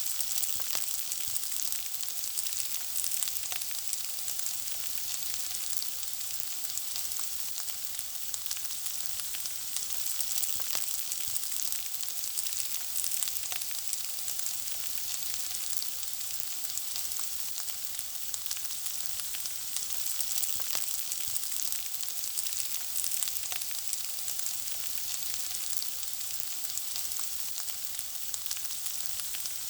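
Food frying in a pan: a steady sizzle full of small, rapid crackles and pops.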